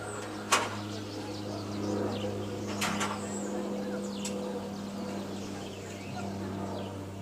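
Short, high bird chirps, a couple at a time, over a steady low hum. One sharp click about half a second in is the loudest sound.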